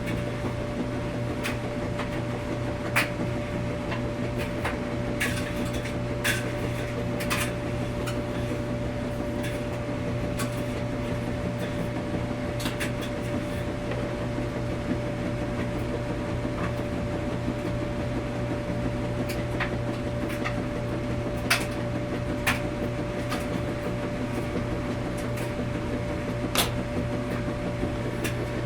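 Washing machine running in a laundromat: a steady low hum with a constant mid-pitched tone, and irregular sharp clicks and knocks every few seconds.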